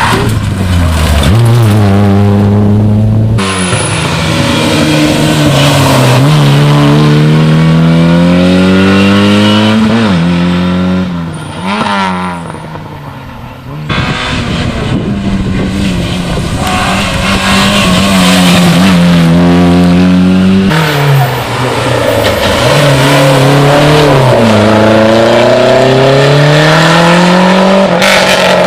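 Rally car engines at full throttle on a special stage, the pitch climbing and falling again and again through gear changes and as the cars pass. Several separate passes follow one another, with a quieter stretch about halfway.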